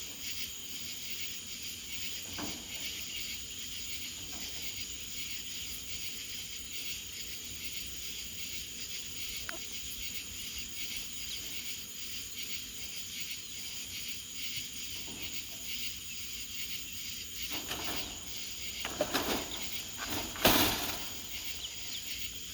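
Insects chirring steadily in a continuous high-pitched drone. A few knocks and a sharp click come near the end.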